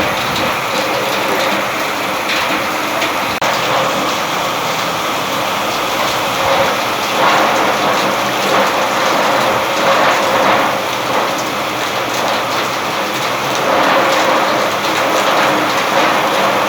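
Rain falling steadily, a dense even hiss of drops that swells a little now and then.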